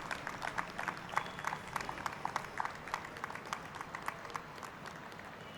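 Audience applauding with scattered hand claps that thin out and die away near the end.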